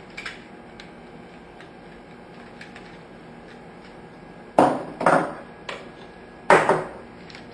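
Plastic body of a long-nose fireplace lighter being forced apart: a few light clicks, then three loud sharp cracks and knocks in the second half, with a smaller one between them.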